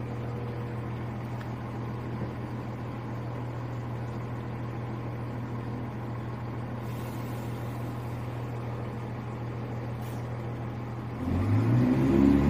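Cross Country Class 170 Turbostar diesel multiple unit's underfloor engines running steadily at the platform, then opening up with a rising note as the train pulls away near the end.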